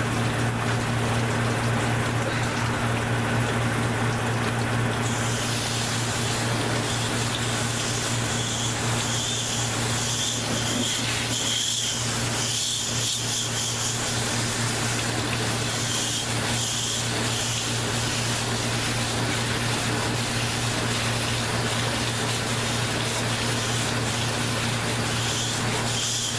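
Water spraying steadily onto a dirty evaporator coil to wash it clean, over a constant low hum. The spray turns brighter and hissier about five seconds in.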